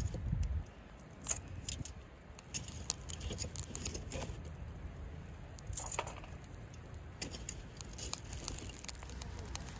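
Wood fire of thin-split kindling and charcoal crackling, with scattered sharp pops at irregular intervals over a low steady rumble.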